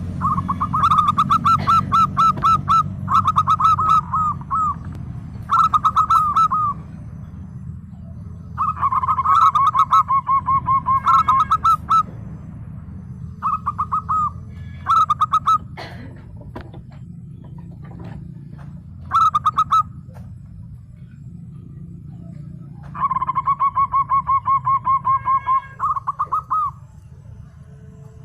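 Zebra dove (perkutut) singing: several phrases of rapid, staccato cooing notes, each phrase lasting about one to four seconds and separated by pauses. A steady low hum runs underneath, and a few sharp clicks come around the middle.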